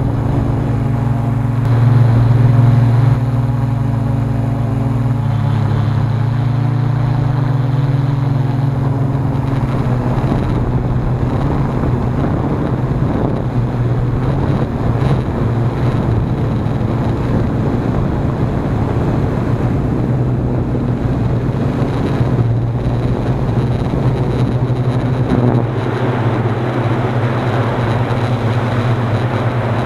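Hexacopter's motors and propellers buzzing in flight, a steady hum whose pitch shifts up and down as the motors work, louder for a moment about two seconds in. Strong wind rushes over the microphone underneath.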